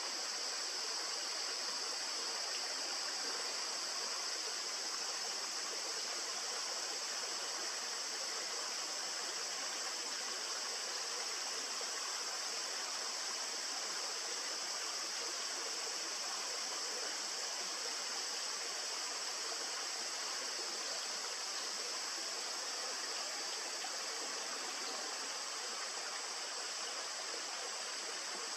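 Steady, unbroken rush of flowing river water, with a constant high hiss on top and no bird calls.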